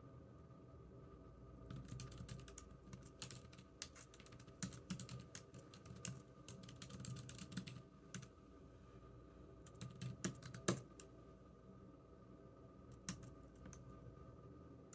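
Typing on a computer keyboard in bursts of rapid key clicks with short pauses between them. One keystroke near the end of the second burst is the loudest, and a few single key presses follow.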